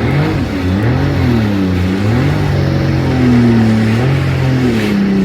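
Jet ski engine running at speed, its pitch rising and falling several times as the throttle changes over the waves, over a steady rushing of wind and water.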